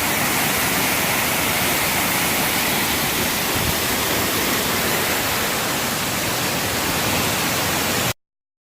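Dickerson Creek Falls pouring in a steady, loud rush of falling water, the creek swollen by rain; the sound cuts off suddenly about eight seconds in.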